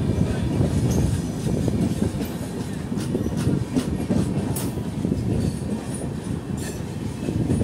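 Passenger train coaches rolling along the track with a steady low rumble from the wheels, and scattered sharp clicks of wheels over rail joints.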